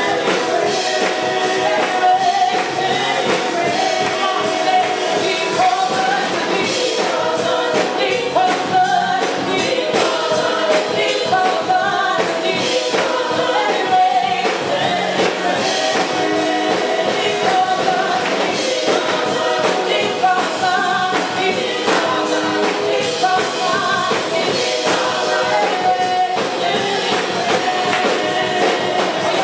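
Voices singing a song with instrumental accompaniment, sounding like a choir or singing group.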